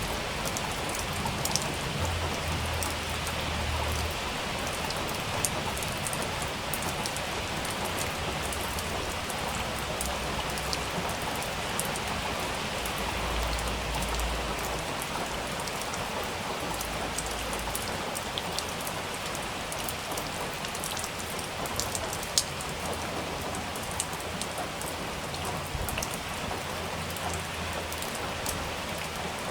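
Steady heavy rain falling, an even hiss with sharp drop clicks scattered throughout. A low rumble comes and goes a few times.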